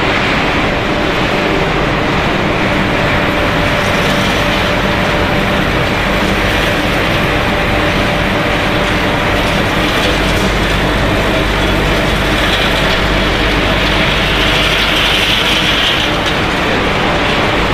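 Snack pellet production line machinery running steadily: a loud, even mechanical noise with a faint steady hum underneath.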